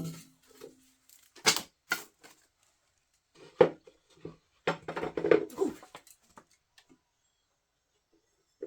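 Scattered knocks and clatter of household objects being handled: sharp knocks about a second and a half and two seconds in, another a little past the middle, then a busier run of clattering around five seconds.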